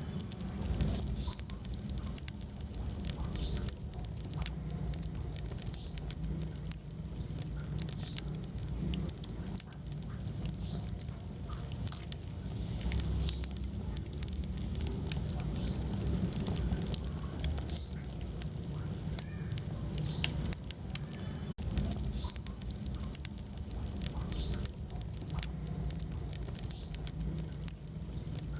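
Wood fire burning in a fireplace: a steady low rumble of flames with scattered crackles and pops, and a few brief high whistles.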